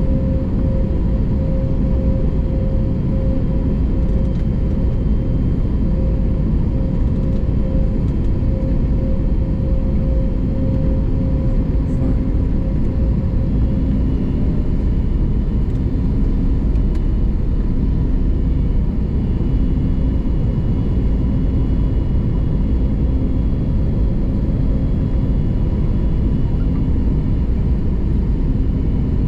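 Steady cabin noise inside an Airbus A321neo: a loud, even rushing roar of the engines and airflow, with a steady low hum held throughout.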